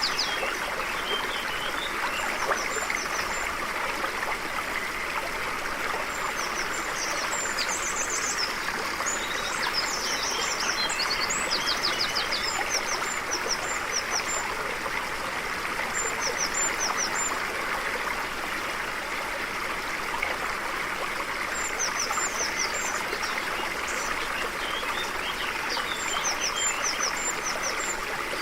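Steady rushing of a flowing stream, with birds singing short high chirps and trills over it at intervals.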